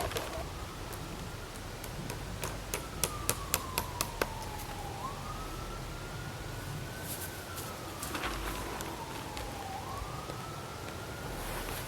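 An emergency vehicle's siren sounding a slow wail, its pitch rising and falling in long cycles of about five seconds. A quick run of about six sharp knocks comes two and a half to four seconds in.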